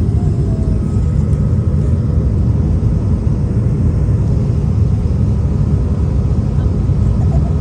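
Steady, even cabin roar of an Airbus A220 on approach, heard from a passenger seat: its Pratt & Whitney PW1500G geared turbofan engines and airflow past the fuselage, deep and unchanging.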